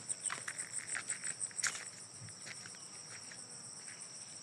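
Insects trilling steadily in a continuous high, pulsing chorus. Scattered light ticks and taps are heard in the first two seconds.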